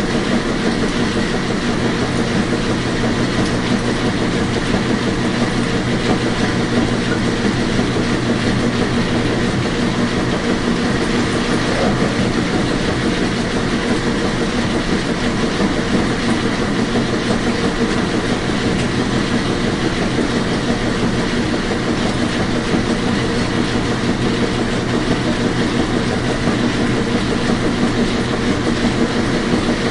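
Washing machine running steadily: a continuous rushing noise with a low, even hum underneath.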